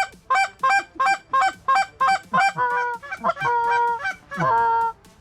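Canada goose call blown by a hunter to bring geese in. It starts with a fast, even run of clipped honks, about three a second, and after about two and a half seconds turns to a few longer, drawn-out honks.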